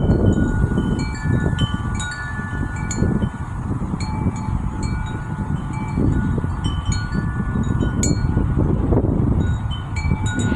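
Wind chime struck irregularly by the breeze, its tubes ringing in several sustained tones that overlap and fade, over steady wind rumbling on the microphone.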